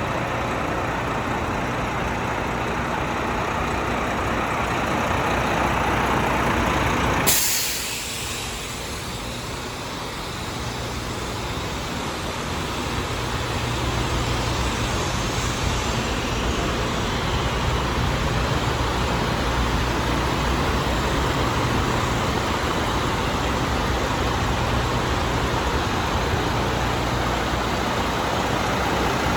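Diesel engine of a 2013 Renault Premium 460 tractor unit running steadily, with a brief loud burst of noise about seven seconds in.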